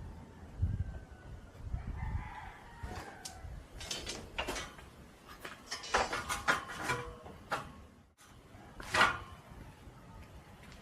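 Bird calls mixed with scattered short knocks; the loudest call comes about nine seconds in.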